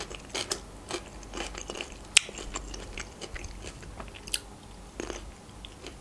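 Close-up chewing of crisp fresh food, with irregular crunches, a sharper one about two seconds in.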